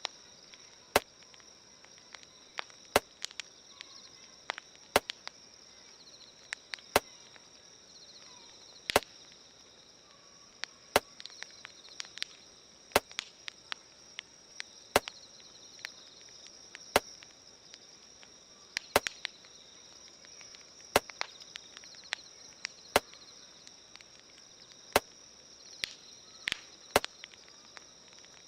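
Campfire crackling, with sharp wood pops, some landing about every two seconds and others scattered between them. Crickets chirr steadily underneath.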